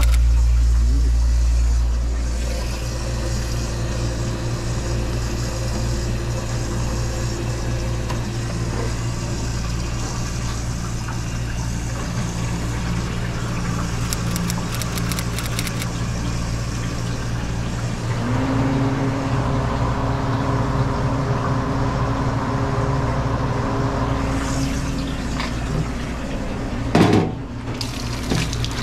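A steady low machine hum runs throughout. In the second half a tap runs water into a plastic container in a stainless steel sink, with a single sharp knock near the end.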